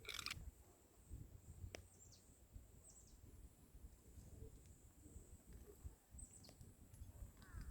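Near silence: a faint low rumble, a single sharp click just under two seconds in, and a few faint short high chirps.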